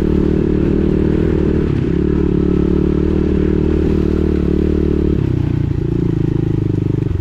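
Pit bike engine running under light throttle while riding a wooded trail, its note dropping lower about five seconds in as the revs come down.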